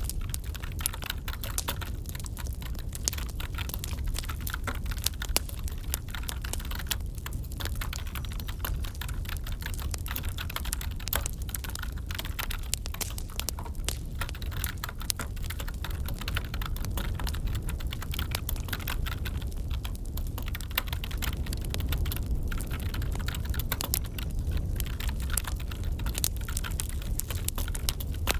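Computer keyboard typing, a dense run of irregular key clicks, over a crackling wood fire with a steady low rumble beneath.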